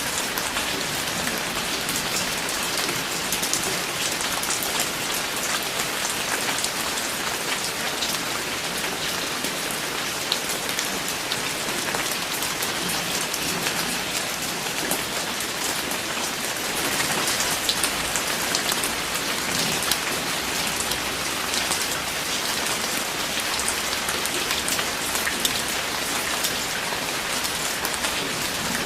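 Steady rain falling, a dense even hiss of many drops pattering on a surface, with individual drop ticks standing out.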